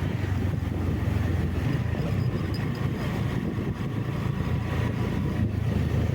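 A road vehicle being driven: a steady low engine and road drone with no break.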